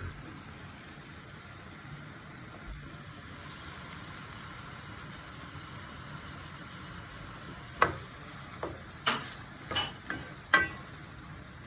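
Chicken pieces frying in hot oil in a pan, a steady sizzle. From about eight seconds in, half a dozen sharp knocks cut through the sizzle.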